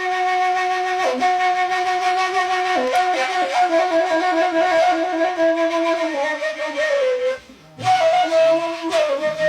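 End-blown reed flute, in the style of the Bedouin gasba, playing a melody of long held notes with small ornamental turns, broken once by a short breath pause about three quarters of the way through.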